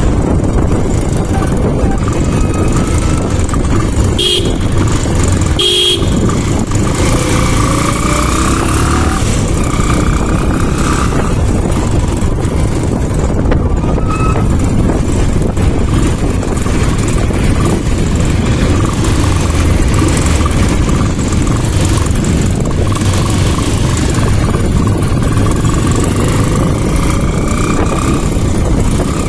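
Motorcycle riding on the road, its engine running under heavy wind noise and rising in pitch a couple of times as it speeds up. A horn gives two short beeps about four and six seconds in.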